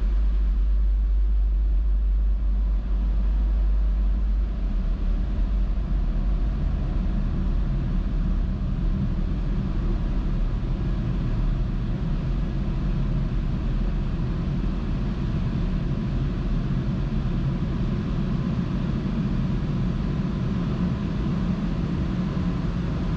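Steady rushing and rumbling of a touchless automatic car wash, heard from inside the car. The deep rumble eases after about five seconds while the rushing grows a little.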